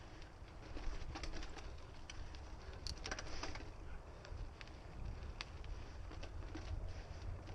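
Mountain bike riding a dirt trail: tyre and trail noise with a low wind rumble on the microphone, and scattered clicks and rattles from the bike, sharpest about three seconds in.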